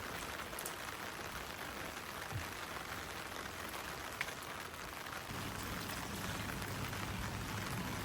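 Steady rain falling, an even hiss of drops; a low hum joins in about five seconds in.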